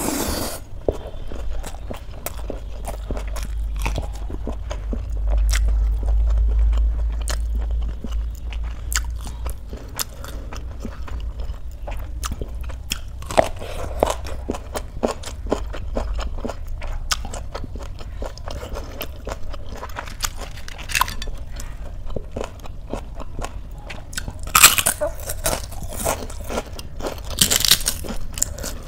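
Close-miked eating sounds: a person chewing mouthfuls of rice and curry mixed with crisp fried sev and raw lettuce, wet chewing broken by many sharp crunches. The crunching is loudest in two runs of bites near the end.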